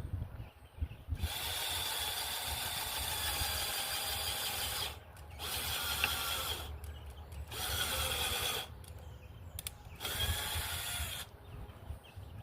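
Cordless drill running in four bursts with a steady motor whine, the first about four seconds long and the next three shorter, with short pauses between them.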